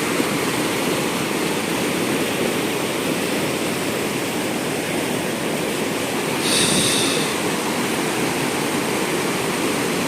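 Heavy, fast flow of a river rushing steadily. About six and a half seconds in, a brief higher-pitched sound rises over the rush for under a second.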